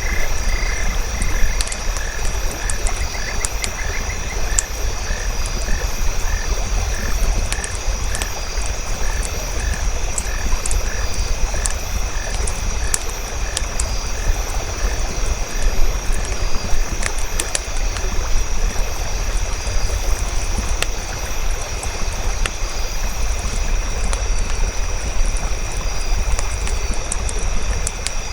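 Campfire crackling with scattered sharp pops over a low rumble, layered with frogs croaking in an even rhythm of about two calls a second that fades out about halfway through, and a constant high-pitched insect drone.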